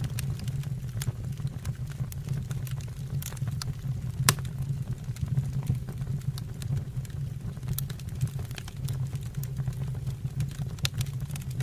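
Wood fire burning in a fireplace, crackling with scattered sharp pops over a low steady rumble; one louder pop about four seconds in.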